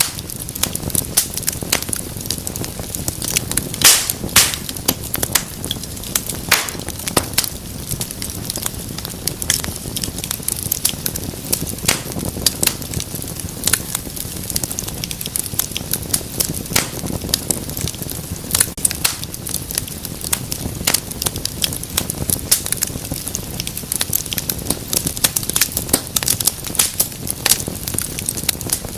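Wood fire crackling in a fireplace: a steady run of small snaps and pops over a low, even rush of burning, with a few louder pops about four seconds in.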